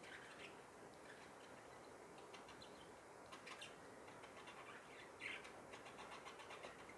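Near silence: room tone with a few faint bird chirps now and then.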